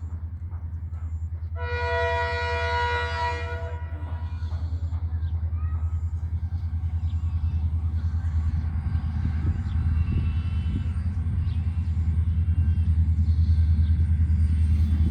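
Train horn sounding one blast of about two seconds, a second or so in, over the steady low rumble of the train running, which grows a little louder near the end.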